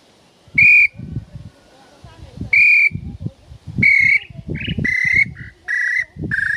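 Hand-made bird-call whistle (pio) being blown in a sound test: clear whistled notes, two single notes a couple of seconds apart, then from about halfway a quicker run of shorter notes that step slightly lower in pitch.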